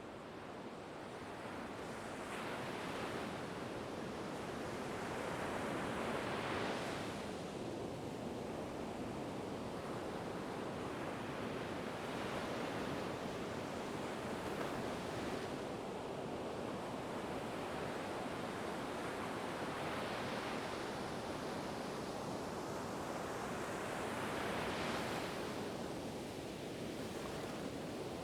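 Ocean surf: a steady wash of waves with a louder breaker rolling in every few seconds, fading up at the start.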